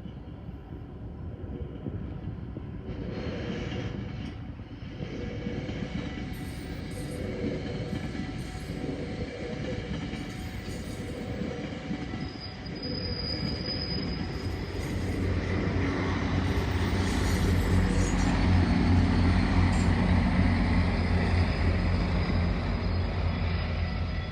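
GO Transit commuter train passing: a steady rumble of wheels on rail with a brief high wheel squeal. From about fifteen seconds in, a low drone from the diesel locomotive grows louder.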